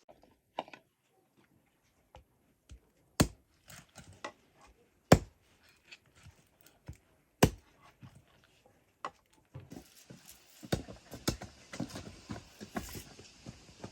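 Sharp single knocks a second or two apart, the loudest about five seconds in, then a busier run of small clicks and rustling from about ten seconds in.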